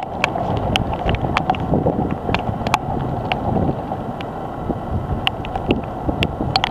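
Storm wind blowing hard on the microphone, a dense steady rush, with irregular sharp ticks of small objects striking nearby, a few each second.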